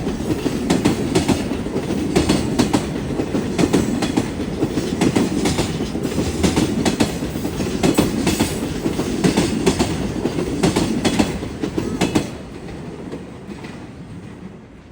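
Freight train wagons rolling past, a steady rumble with repeated clacking of wheels over rail joints. About twelve seconds in the clacking stops and the rumble fades away as the end of the train recedes.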